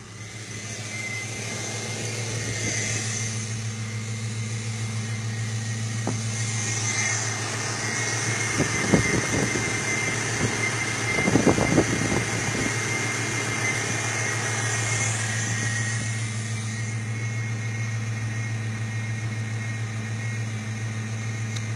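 Ford 5.0-litre V8 idling steadily with the hood open, with a few brief knocks or rustles about nine and eleven seconds in.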